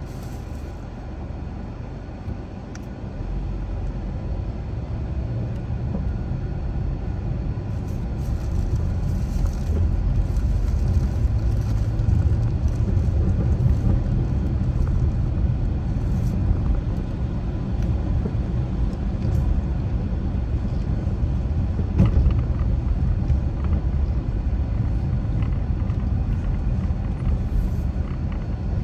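Car driving with a steady low road and engine rumble that grows louder over the first dozen seconds, with a single brief click about two-thirds of the way through.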